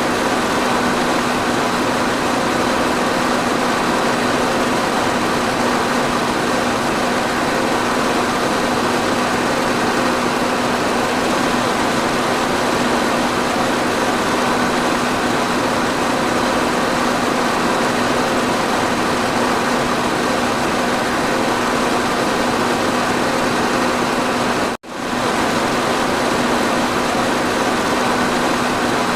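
Electric fan running steadily: an even whoosh of moving air with a low steady motor hum under it. About 25 seconds in the sound drops out for a split second, then comes straight back.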